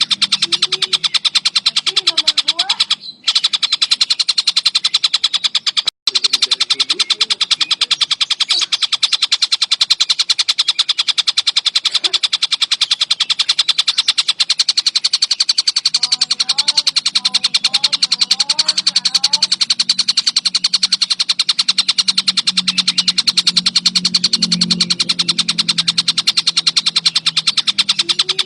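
Collared kingfisher (tengkek buto) giving a continuous, very fast rattling chatter of rapidly repeated notes, with brief breaks about three and six seconds in. Fainter lower calls run underneath.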